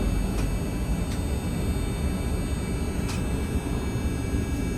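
Steady low rumble of a moving vehicle heard from inside, with a few faint ticks.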